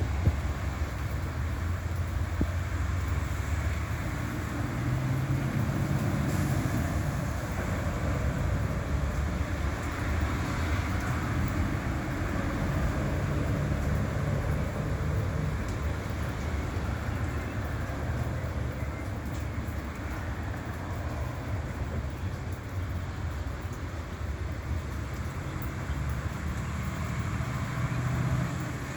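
Steady low vehicle rumble with a hiss above it, swelling and easing slightly without a break.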